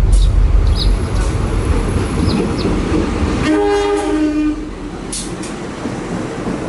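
A train running with a heavy low rumble, its horn sounding once for about a second midway.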